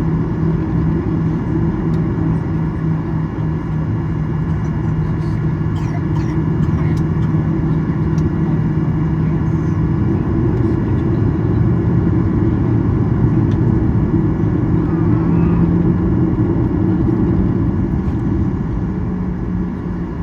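Boeing 737-800 cabin during taxi: a steady rumble and drone of the CFM56 engines at low taxi power, heard from inside the cabin, with a few faint clicks about six seconds in.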